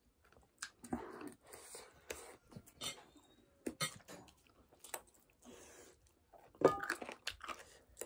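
Chewing and biting into chicken wings, with scattered short clicks and crunches. There is a louder sharp knock about two-thirds of the way through.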